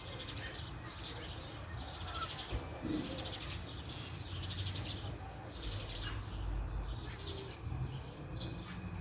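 Small birds chirping over and over in short high calls, with a low steady rumble underneath.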